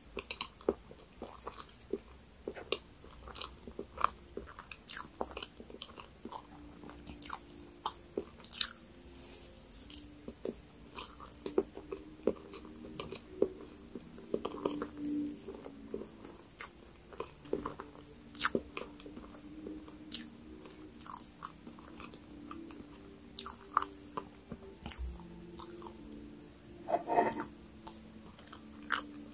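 Close-miked chewing of soft cream-topped sponge cake, with many short wet mouth clicks and smacks.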